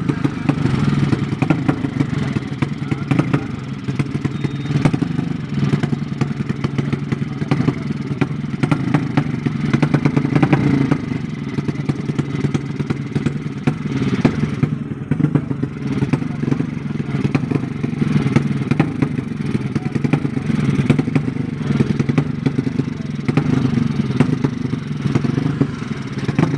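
Racing motorcycle engine running with a steady, rattly clatter.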